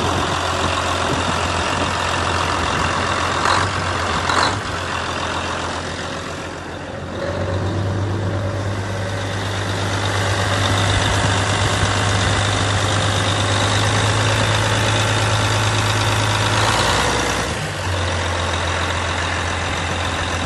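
Caterpillar Challenger 85C crawler tractor's diesel engine running steadily, with two short knocks a few seconds in. The engine note grows fuller about seven seconds in and drops back shortly before the end.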